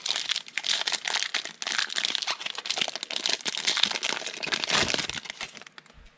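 A plastic-foil trading-card pack wrapper crinkling and tearing as it is ripped open and pulled off the cards. It is dense and crackly for about five and a half seconds, then it stops shortly before the end.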